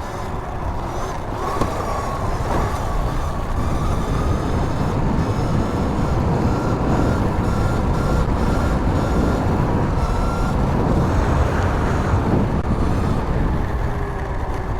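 Wind blowing on a helmet lav mic while riding a 2019 Sur-Ron electric dirt bike, with the electric motor's thin whine running over it. The whine climbs about a second and a half in and then holds steady.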